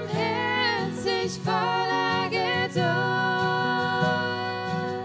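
A singer performing a German Christian worship song over acoustic guitar, holding one long note through the second half.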